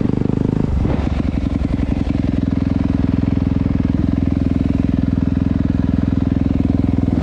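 Dirt bike engine running at a steady pitch, its rapid firing pulses loud throughout.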